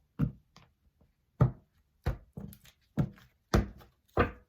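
A deck of oracle cards being shuffled by hand, making six short thuds spaced about half a second to a second apart.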